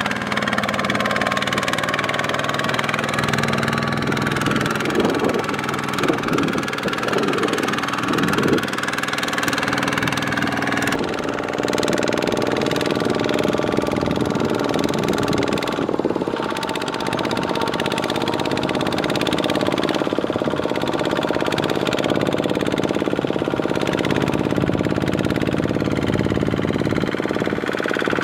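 Single-cylinder Kubota diesel engine of a mini walk-behind tractor running steadily while working in deep mud. Its note shifts about eleven seconds in.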